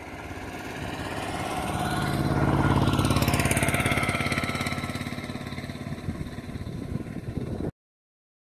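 A motor vehicle's engine passing by, growing louder to a peak about three seconds in, then fading away. The sound cuts off abruptly near the end.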